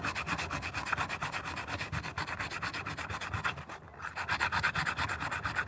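Sandpaper being rubbed by hand over a fibreglass-resin patch on a motorcycle fairing in rapid, even back-and-forth strokes, pausing briefly about four seconds in.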